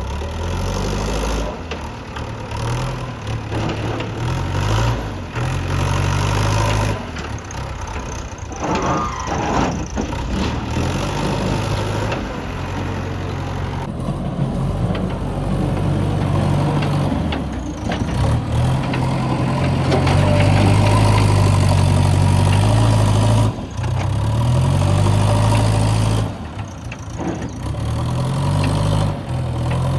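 JCB 3DX backhoe loader's diesel engine working, its pitch rising and falling again and again as it digs and loads.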